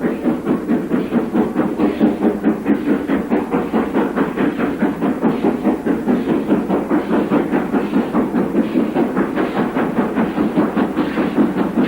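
LMS Princess Royal class Pacific No. 6201 Princess Elizabeth pulling away under steam, its exhaust beating in a fast, even rhythm of about four to five beats a second.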